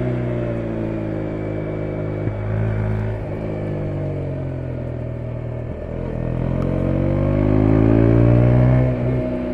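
The 2017 KTM 125 Duke's single-cylinder 125 cc engine, heard from the rider: the revs fall for about five seconds with a few brief breaks, then rise again for about three seconds under acceleration, with a short dip near the end.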